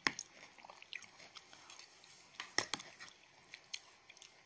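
Quiet chewing of a mouthful of bamboo-shoot curry, with a few sharp clicks: the loudest right at the start, another about two and a half seconds in.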